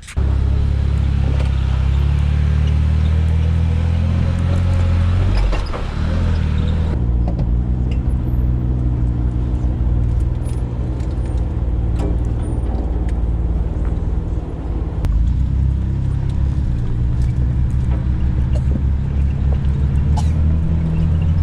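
Jeep engine running at low speed while crawling a rocky trail: a steady low drone, with scattered knocks and rattles over it.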